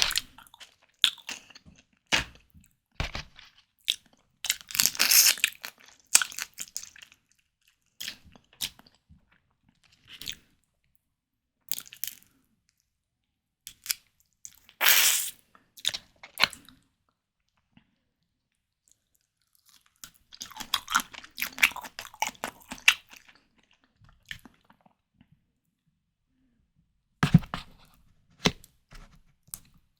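Close-miked eating sounds: a person biting and chewing white tiger prawn cocktail, wet mouth clicks coming in bursts with silent pauses of a few seconds between bites.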